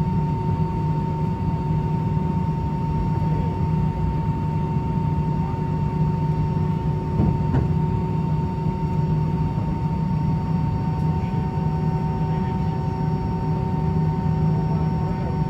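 Steady cabin drone inside an Airbus A319 airliner: a low rumble with a steady whine over it, and a faint click about halfway through.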